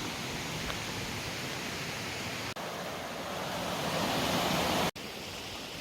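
Mountain stream water rushing over rocks, a steady hiss that swells a little near the end, broken by two brief dropouts.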